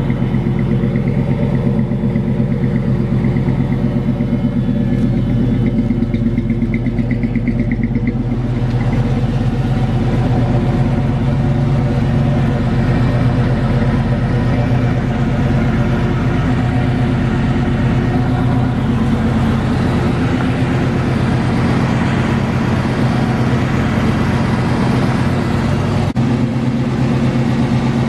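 1989 Chevy Caprice's 305 small-block V8 running through Flowmaster Delta 40 mufflers, a steady deep exhaust note while driving. A broad hiss of road and wind noise joins about eight seconds in.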